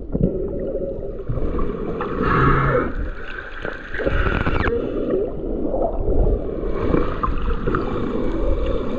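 Gurgling, sloshing water noise with a heavy low rumble that comes in suddenly.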